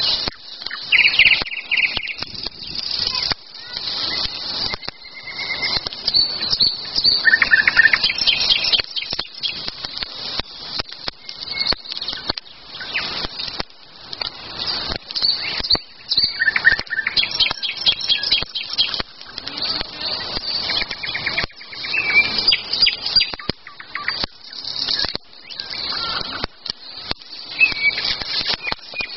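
Wild birds singing, with many short chirps and trills, over frequent sharp crackles and clicks.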